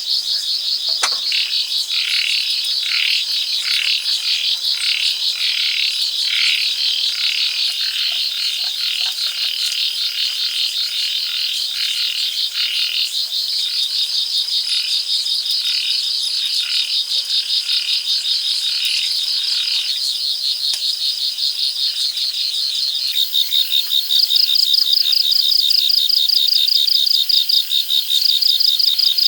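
Rainforest ambience: insects trilling, a steady high pulsing chorus, with lower calls repeating over and over through the first twenty seconds or so. The insect trill grows louder near the end.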